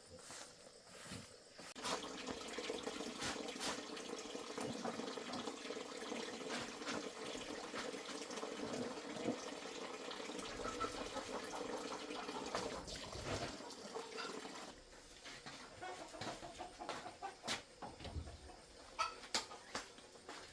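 Water running or pouring steadily, starting about two seconds in and stopping about three-quarters of the way through, followed by a few sharp knocks.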